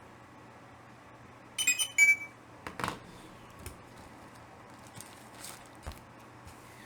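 A brief bright clinking, with several ringing high notes about two seconds in, then soft clicks and light rustling as comic books are handled.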